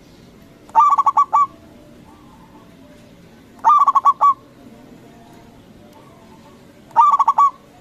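Zebra dove (perkutut) singing, three song phrases about three seconds apart, each a quick run of five or six clipped cooing notes lasting under a second.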